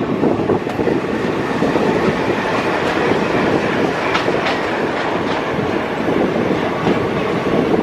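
Passenger train's coaches rolling along the track, a steady loud rumble with the wheels clacking over rail joints.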